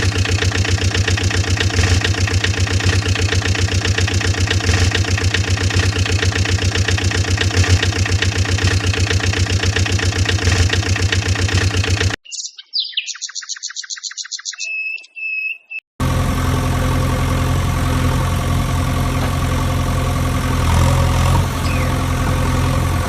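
A steady engine idle with a fast, even chugging pulse that cuts off abruptly about twelve seconds in. A few seconds of rapid high chirps and a short high beep follow. Then a deeper engine starts and runs steadily.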